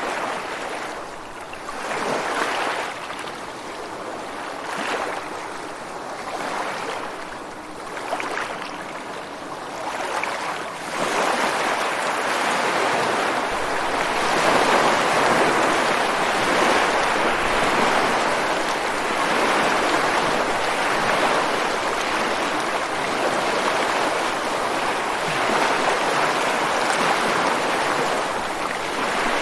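Ocean waves coming ashore: uneven surges of washing water every couple of seconds, then about ten seconds in a larger wave breaks and the wash turns into a louder, steady rush of surf.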